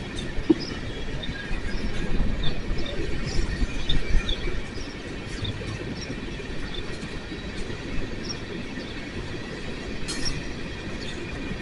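Empty coal train's cars rolling slowly past: a low rumble with scattered wheel clicks and brief high wheel squeals, heaviest a couple of seconds in.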